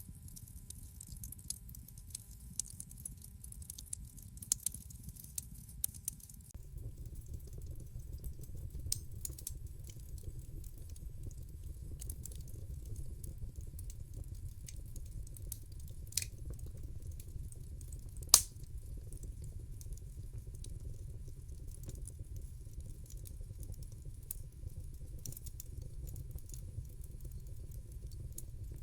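Wood fire crackling in a fireplace: a steady low rumble of the flames with scattered sharp pops and snaps. The rumble grows louder about six seconds in, and one loud pop stands out about two-thirds of the way through.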